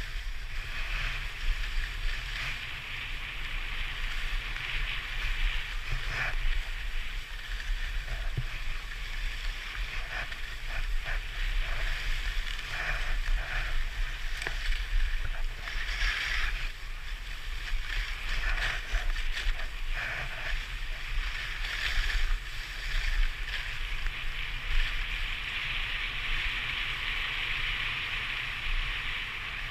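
Skis sliding and scraping over snow in a continuous hiss that swells and fades through the turns, with a steady low rumble underneath.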